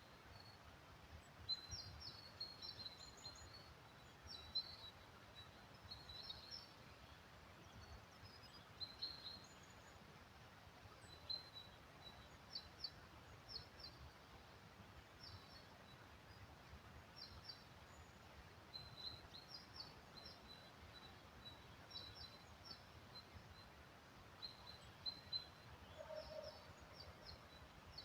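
Small birds chirping, short high calls repeated on and off, over a faint low rumble.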